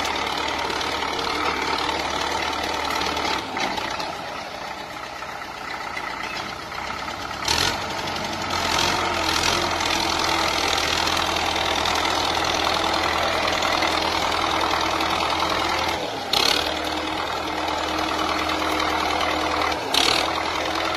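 Old tractor engine running steadily. It drops in level for a few seconds early on and then picks up again, with a few sharp knocks or clicks along the way.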